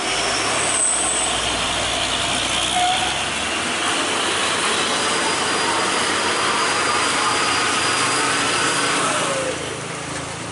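A heavy truck's engine running, with steady noise throughout that eases a little near the end.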